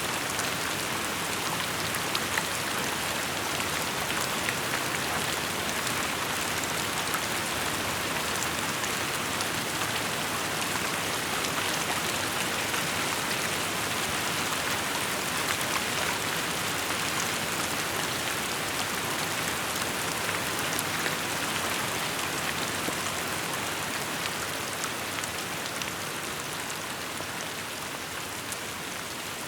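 Steady rain falling, a dense even hiss of many drops with fine ticks of individual drops on surfaces, easing slightly near the end.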